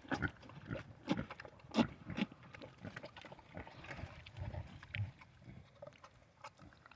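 Pigs drinking beer from a rubber bucket: a run of short, irregular slurping and clicking noises, with a few low grunts about two-thirds of the way in.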